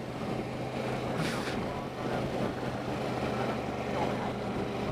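Motorcycle engine running steadily under the rider, a constant low hum, with a brief hiss about a second in.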